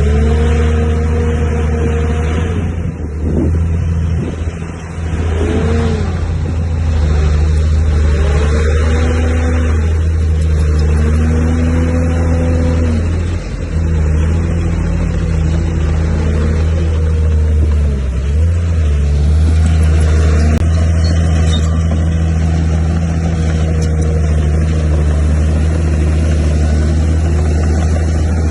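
Bulldozer's diesel engine running steadily under load. A higher whine rises and falls every few seconds as the machine works.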